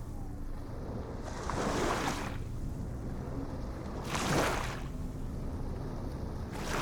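Ocean waves washing in: three swells of surf, about two and a half seconds apart, over a steady low rumble.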